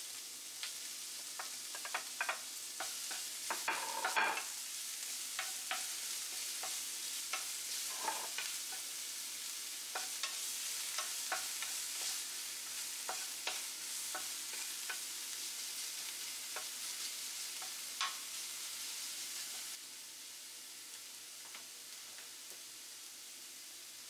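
Diced onion sizzling in oil in a nonstick frying pan over medium heat, with a wooden spatula scraping and tapping against the pan as it is stirred. About twenty seconds in, the sizzle drops to a quieter hiss and the tapping mostly stops.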